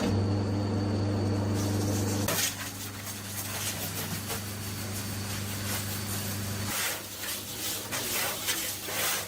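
A machine running with a steady low hum that starts abruptly, drops in level after about two seconds and stops about two-thirds of the way through, followed by scattered knocks and clatter.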